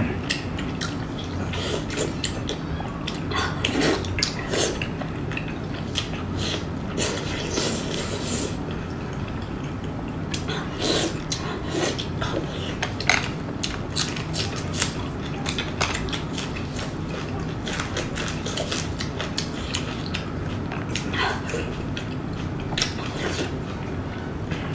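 Close-miked chewing and lip smacking of people eating soft braised pork: many short, wet clicks and smacks at irregular intervals.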